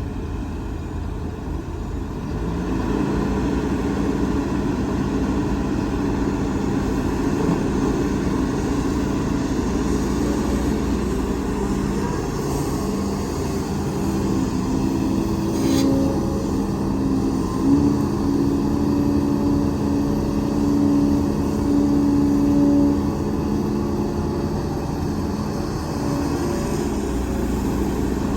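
Diesel engines of heavy earthmoving machinery running steadily, with a deep hum of several held tones; the engines get louder about two and a half seconds in, and there is a single sharp click a little past the middle.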